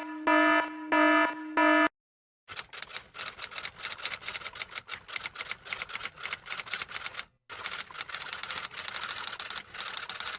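Four short buzzy electronic alarm-clock beeps in quick succession, then, after a short pause, a typewriter's keys clattering rapidly for several seconds, with a brief break in the middle.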